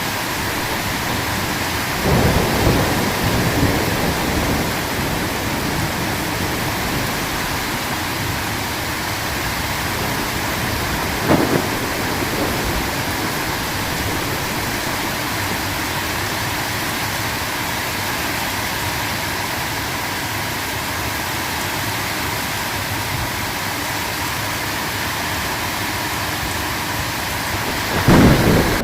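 Steady heavy rain with thunder: a rumble about two seconds in, a short crack around the middle, and the loudest thunderclap near the end.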